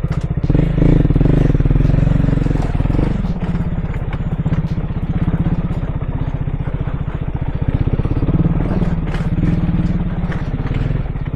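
KTM Duke 250 single-cylinder engine running as the motorcycle is ridden, getting louder about half a second in.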